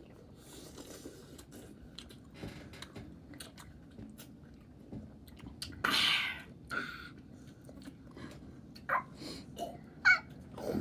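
Close-miked chewing and mouth sounds from people eating fruit, with small wet clicks throughout. A louder noisy burst comes about six seconds in, and sharp clicks come near the end.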